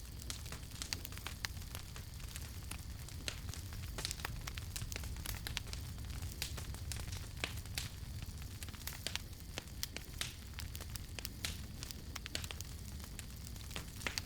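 Campfire burning with irregular sharp crackles and pops of burning wood over a steady low rumble of the flames.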